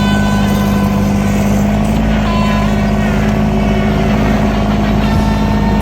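Tractor engine running steadily at high revs, one even engine drone with no change in pitch.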